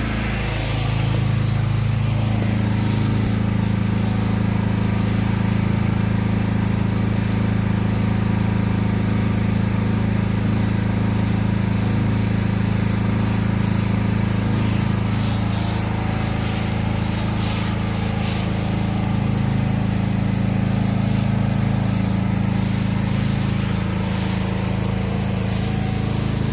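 Pressure-washing rig's engine running steadily at a constant speed, with the hiss of water spraying over it.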